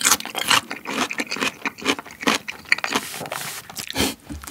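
Close-miked chewing of crunchy pickled radish cubes: a quick, uneven run of wet crunches and clicks in the mouth.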